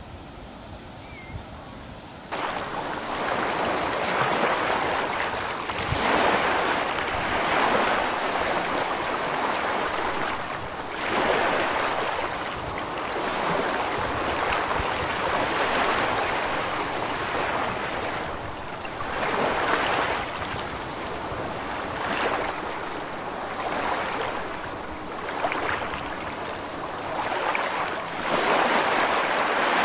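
Sea water rushing and hissing in a ferry's churned wake, rising and falling in surges every second or two. It starts abruptly about two seconds in.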